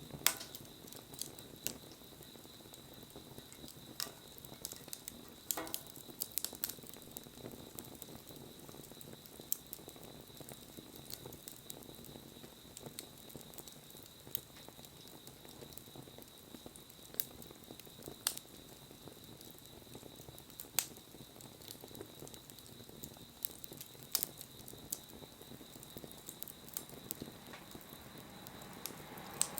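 Wood bonfire crackling, with irregular sharp snaps and pops over a faint steady hiss.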